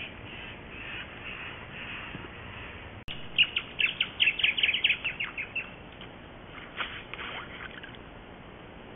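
Wild birds calling: a rapid run of loud, short, high chirps starts suddenly about three seconds in and lasts about two seconds. A second, shorter run follows a second later, with fainter chirps before the first run.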